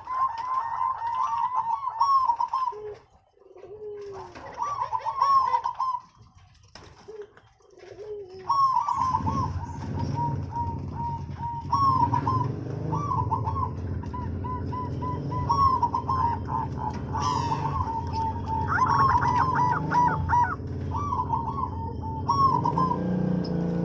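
Zebra doves (perkutut) cooing in repeated rolling phrases, with small birds chirping higher above them. From about nine seconds in, a steady low hum runs underneath.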